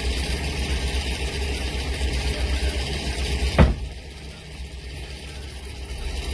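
A vehicle engine running steadily, heard from inside the vehicle. About three and a half seconds in there is a single sharp knock, and after it the engine noise is quieter for a couple of seconds.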